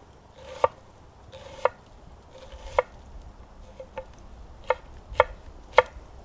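Knife chopping on a cutting board: about seven single sharp strokes, roughly one a second, some coming slightly faster near the end.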